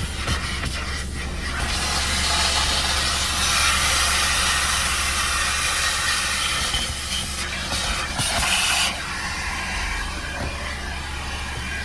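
Car wash vacuum hose running: a loud, steady rushing hiss over a low motor hum. The hiss changes as the nozzle moves and drops noticeably about nine seconds in.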